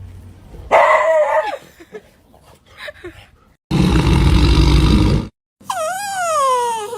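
An animal's drawn-out calls: a short falling cry about a second in, and near the end a long cry that rises and then slides down in pitch. Between them is a loud burst of rushing noise that cuts off abruptly.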